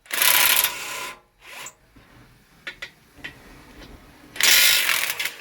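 Two loud bursts of scraping, rubbing noise, each about a second long, one at the start and one near the end, with a few light clicks between them.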